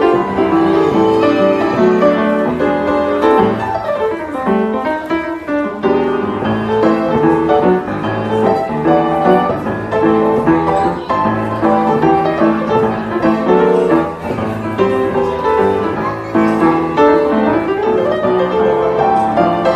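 Piano being played in an improvised jam: a continuous flow of notes and chords with no pauses.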